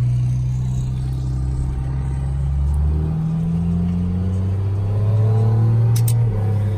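Vehicle engine running with a deep steady hum, its pitch shifting and briefly rising as it revs a little. A short sharp click comes near the end.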